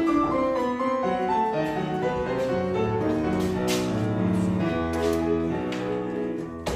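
Piano playing the instrumental introduction to an operetta song, with several held notes moving in steps. A single sharp knock near the end.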